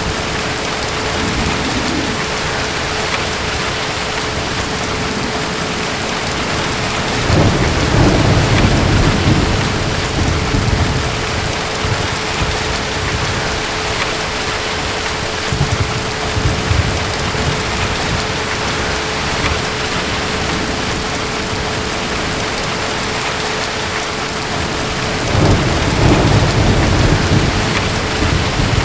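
Steady heavy rain with low rolls of distant thunder: one rumble swells about seven seconds in and another near the end, with fainter rumbles in between.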